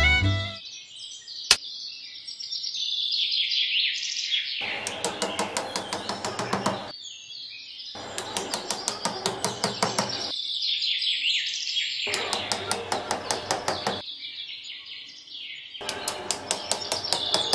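Small birds chirping with quick rising and falling calls. Four runs of rapid ticking, each about two seconds long, break in across the chirping.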